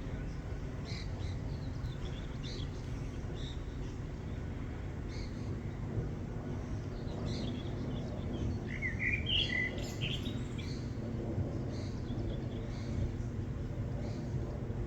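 Small birds chirping on and off, with a cluster of quick rising chirps about nine seconds in, over a steady low rumble.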